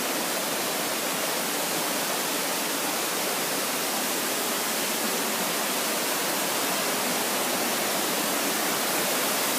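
A brook swollen by a long spell of wet weather, its water rushing in a steady, unbroken stream; positively roaring.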